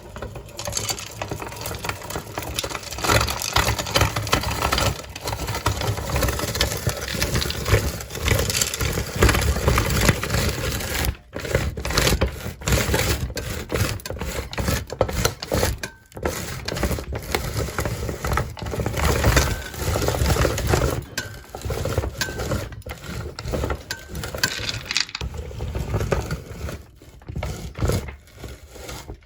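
Meat grinder crushing candy: a continuous crackling, crunching grind with many small clicks, stopping briefly twice.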